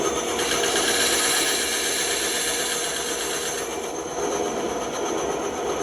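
Bandsaw running, its blade cutting wood: a louder hiss comes in about half a second in and eases after about three and a half seconds, leaving the saw running on.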